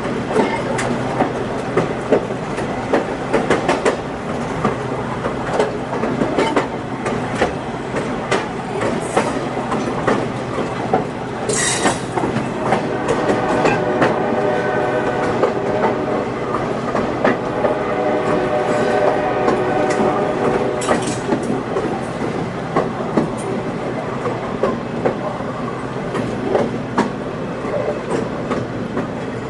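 Diesel-hauled excursion train rolling along the track, its wheels clicking irregularly over rail joints under a continuous rumble. A short hissing burst comes about twelve seconds in, and a steady pitched sound rides over the rumble for about eight seconds after it.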